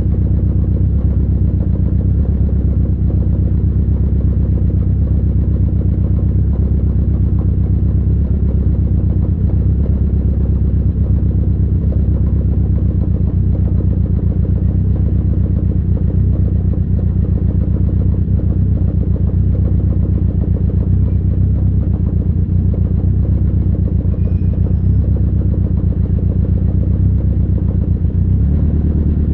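Fiat Punto GT's turbocharged four-cylinder engine, running on E85, idling steadily while warming up after a cold start. The idle speed shifts slightly near the end.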